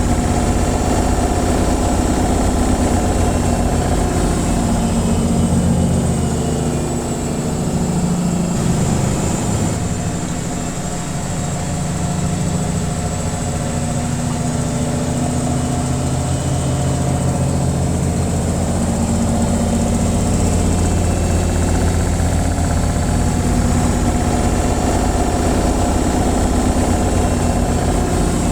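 Washing machine on its spin cycle: a steady motor-and-drum hum with a low rumble, easing slightly for a few seconds about a third of the way through.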